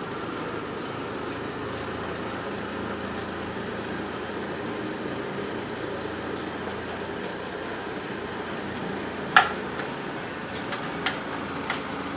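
A car engine idling steadily, with one sharp knock about nine seconds in and a few lighter clicks after it.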